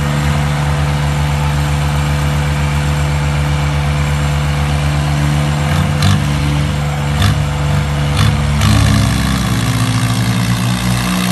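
Mahindra tractor's diesel engine running steadily with an even low pulse, with a few sharp knocks about six to eight seconds in. The engine note shifts up and gets a little louder at about eight and a half seconds.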